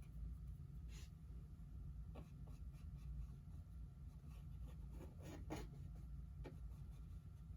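Paintbrush working thick acrylic paint onto a canvas: scattered short, soft scratchy strokes, with a quick cluster of them about five seconds in.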